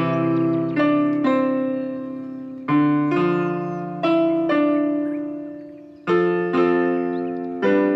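Solo piano music, slow chords and single notes struck one after another, each ringing out and fading before the next.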